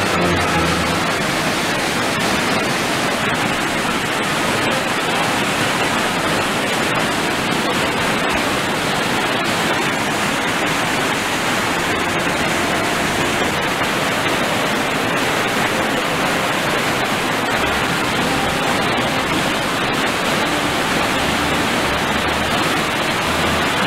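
Rushing water: a steady, loud, unbroken rush of a fast-flowing stream or cascade.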